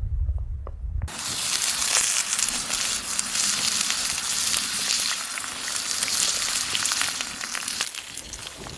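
Food frying in a hot pan: a steady sizzle with small pops and crackles that starts suddenly about a second in. Before it there is only a low rumble.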